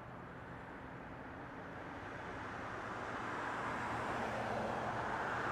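Jet airliner engine noise, a steady rushing roar that grows gradually louder as the aircraft draws nearer.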